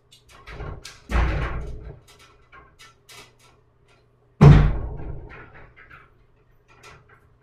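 Two heavy thumps, about a second in and again near the middle, each dying away over a moment, with lighter knocks and clicks between and after them.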